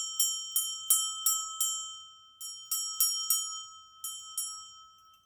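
A bell rung over and over, about three strikes a second, in two or three runs with short pauses between, its clear ringing tone carrying through and fading away near the end.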